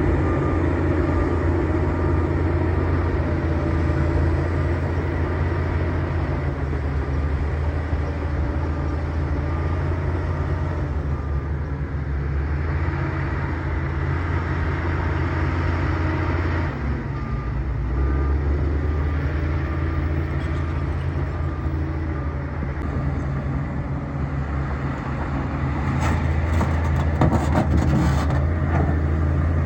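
Bulldozer's diesel engine running steadily under load while the machine pushes brush, with a deep drone that dips briefly about halfway. Near the end comes a short spell of sharp cracking and clattering.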